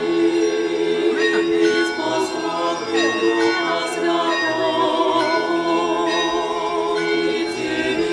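Several voices singing an Orthodox church chant together, holding long, steady notes.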